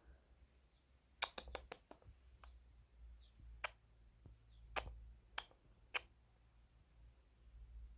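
Irregular sharp clicks or taps, about a dozen, bunched about a second in and then spaced out, with a few faint short high chirps between them over a low hum.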